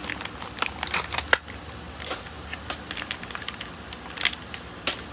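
Handling of packaged 1/64-scale diecast cars: irregular small clicks, taps and crinkling of plastic packaging, with a few sharper clicks about a second in and again near the end.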